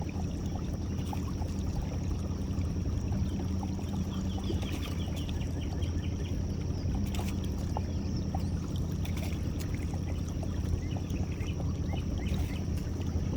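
A boat's outboard motor idling steadily as the boat creeps along the trotline, with water trickling and a few small clicks.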